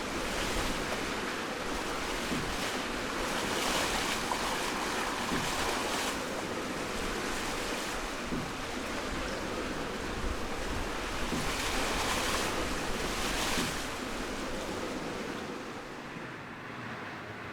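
Sea water washing along the hulls of an aluminium sailing catamaran under way, swelling and easing every few seconds, with wind buffeting the microphone and a faint steady hum beneath.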